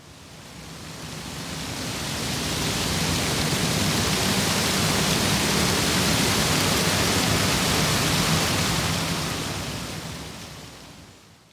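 A steady rushing hiss that swells up over the first few seconds, holds, and fades away near the end.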